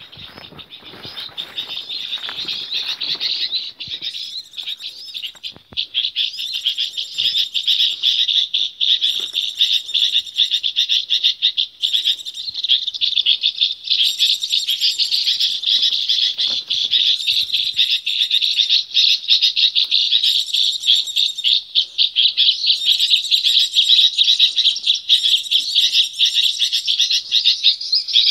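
A flock of small birds (gelatik) calling all together: a dense, continuous chorus of high chirps and twitters. It builds over the first few seconds and then stays loud and busy.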